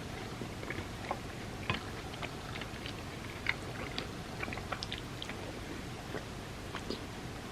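Close-miked chewing and mouth sounds of soft chocolate truffles softened in warm almond milk, with small irregular wet clicks.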